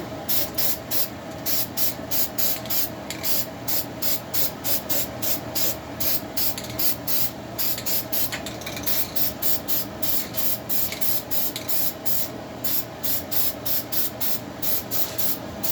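Aerosol can of high-heat spray paint hissing in rapid short bursts, about four a second, as a chainsaw muffler is coated, over a steady hum.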